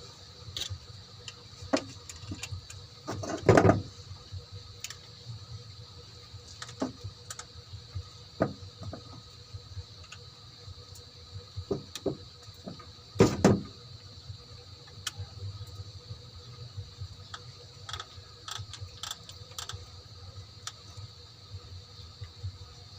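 Hand tools and parts clinking and knocking on metal during engine work, in scattered short clicks with two louder knocks, about three and a half seconds in and again about thirteen seconds in, over a steady background hum.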